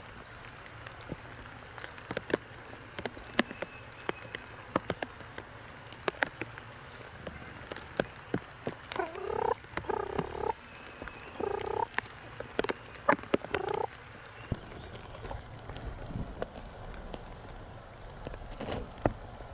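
Wild turkey calling in three rattling bursts about halfway through, with scattered sharp clicks and taps throughout.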